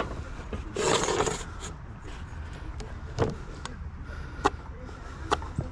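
Roofing material being handled: a brief scraping rub about a second in, then a few sharp knocks spread over the rest, over a steady low rumble.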